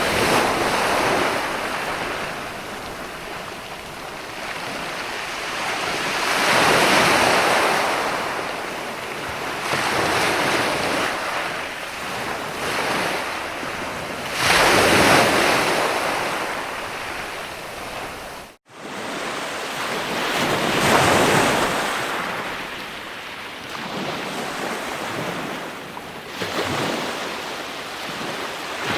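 Ocean waves breaking and washing up the shore, swelling and ebbing in surges every few seconds. The sound drops out for an instant about two-thirds of the way through.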